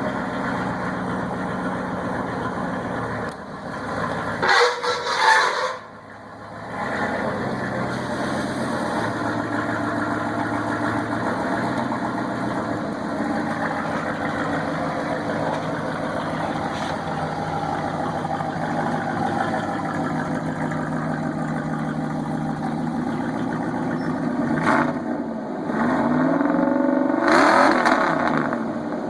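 1998 Dodge Dakota V8 running through a straight-piped exhaust with stacks, idling steadily. It is revved briefly about four seconds in, then revved again near the end, the pitch rising.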